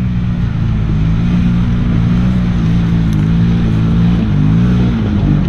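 Can-Am Maverick Sport side-by-side's engine running under load on a rocky climb, its pitch dipping and rising about four seconds in as the throttle changes.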